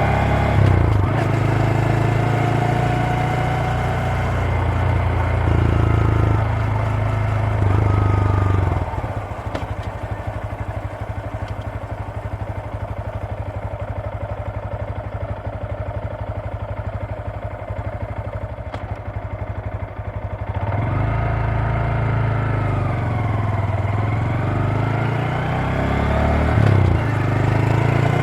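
Honda Grom (MSX125) single-cylinder 125 cc four-stroke engine and exhaust: running under load through the gears, dropping to a steady, quieter idle about nine seconds in, then revving up and pulling away through the gears again about twenty seconds in.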